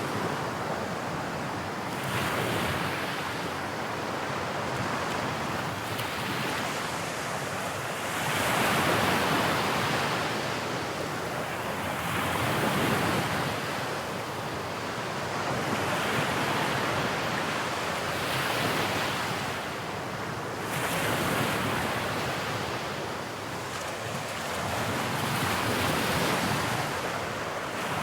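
Sea waves breaking and washing in, swelling and falling every few seconds, with wind on the microphone.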